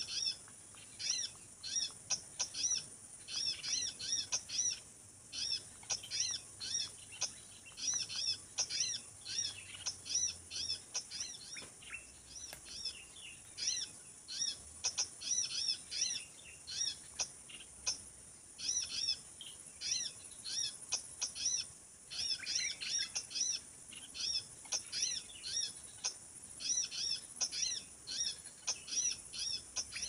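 Small birds chirping in quick, repeated short calls that sweep down in pitch, several a second, over a steady high-pitched ringing.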